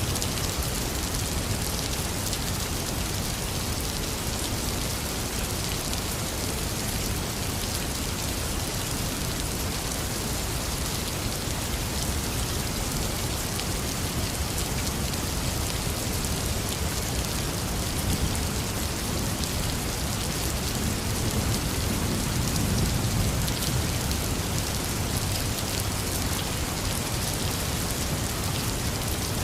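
Heavy, steady rain pouring onto surfaces, a dense even hiss of drops. A low rumble of thunder swells and fades about two-thirds of the way through.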